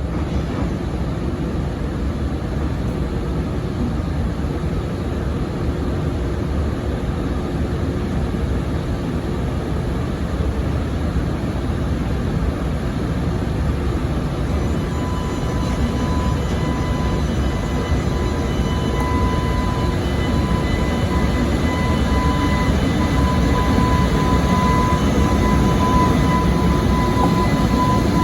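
A train running past on the rails, a steady heavy rumble of wheels. A thin high whine joins about halfway through and grows louder as the rumble builds.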